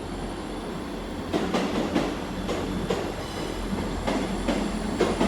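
Class 159 diesel multiple unit rolling into the platform, its wheels clacking in an uneven series over rail joints above a steady low rumble.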